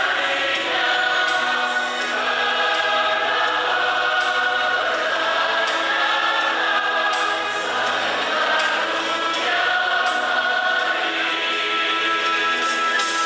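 Church choir singing a sacred song in several-part harmony, the voices holding and changing chords together.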